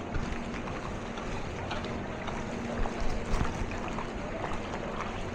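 A vehicle driving through floodwater: an engine hum under a steady wash of splashing water, with a few louder knocks about three seconds in.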